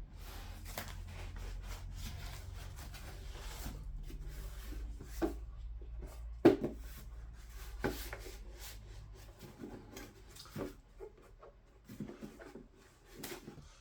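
Hands handling the heater's packaging and parts: rubbing and rustling, then a few sharp knocks, the loudest about six and a half seconds in, over a low hum that fades near the ten-second mark.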